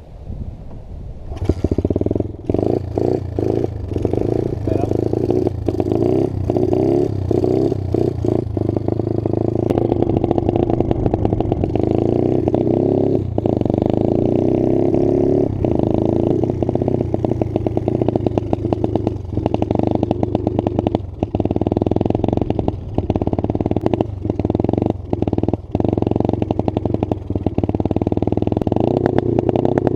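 Pit bike's small single-cylinder engine running under riding, its pitch rising and falling with the throttle, with frequent brief dropouts and crackles.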